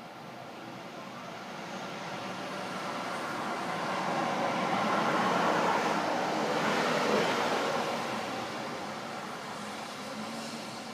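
A road vehicle passing by: tyre and engine noise that grows steadily louder, is loudest a little past the middle, then fades away.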